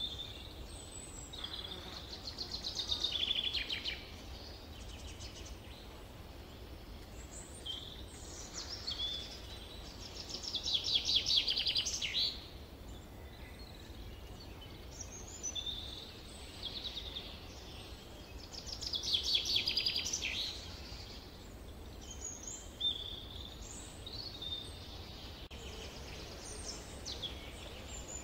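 Summer forest birdsong: a songbird sings a loud trilled phrase about two seconds long three times, roughly eight seconds apart, with shorter chirps from other birds in between, over a faint steady low rumble.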